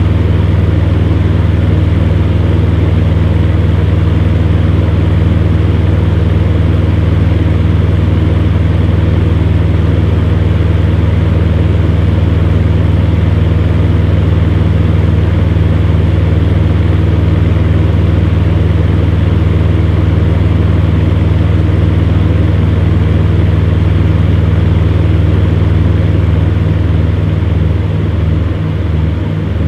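Electric fan heater running steadily: a strong low motor hum with the rush of air from the fan. Near the end the hum starts to waver and pulse slightly.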